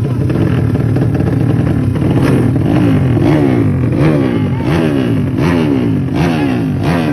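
Motorcycle engine running loudly. About two seconds in, the throttle starts being blipped again and again, the revs rising and dropping roughly every three-quarters of a second.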